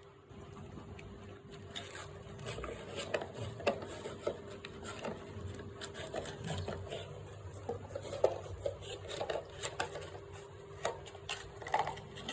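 An animal chewing mutton: irregular clicks and crunches of teeth working the meat, with a steady faint hum underneath.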